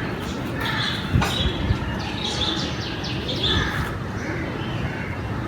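Several birds chirping and calling over one another, short repeated calls throughout.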